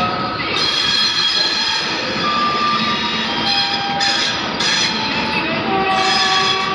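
Vande Bharat electric train set rolling past: a steady rumble of wheels on the rails, with several thin high tones over it that change pitch every second or so.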